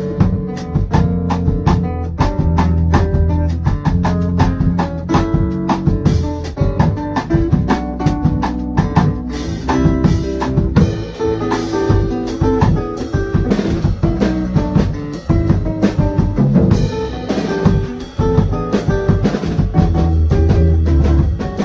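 Instrumental samba played on drum kit and guitar over low bass notes, with a busy, even drum groove.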